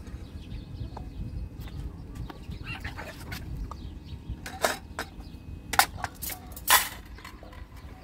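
Faint, short bird or fowl chirps over a steady low rumble, broken by four sharp knocks in the second half, the last and loudest about seven seconds in.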